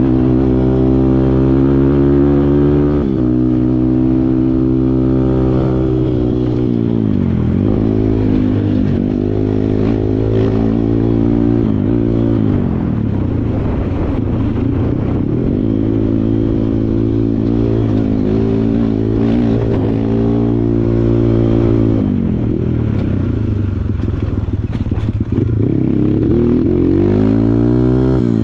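Kawasaki KLX140 dirt bike's single-cylinder four-stroke engine running hard off-road: held at high revs, then repeatedly dropping and climbing again every second or two as the throttle is worked.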